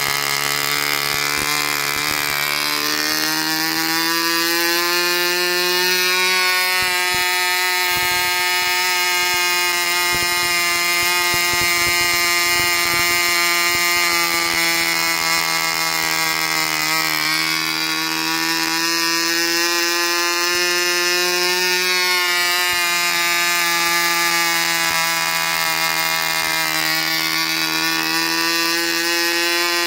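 Veco 19 ball-bearing model glow engine running flat out on Fox 5% nitro fuel, turning an APC 9x4 propeller: a loud, steady buzzing whine. Its pitch climbs slightly a few seconds in, then wavers and dips briefly a few times.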